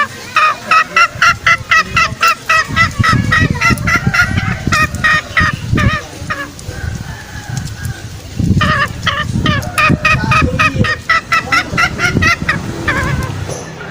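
Green junglefowl calling: a rapid run of short clucking notes, about four or five a second, breaks off briefly and then starts again. A low rumble runs underneath.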